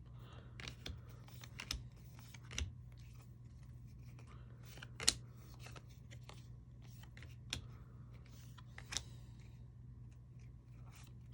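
Baseball trading cards being handled and flipped through, giving scattered light clicks and rustles, with a sharper snap about five seconds in. A steady low hum runs underneath.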